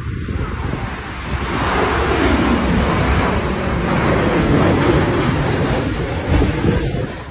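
A heavy vehicle, such as a truck, passing close by: its running noise swells from about a second in, stays loud for several seconds and then falls away sharply at the end.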